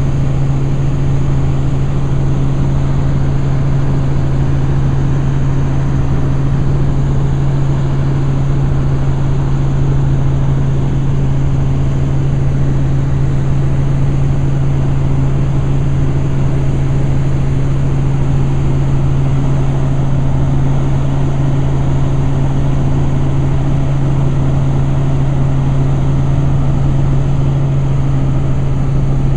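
Helicopter in flight, heard from aboard: a loud, steady drone of engine and rotors with one strong low hum over a wide rushing noise.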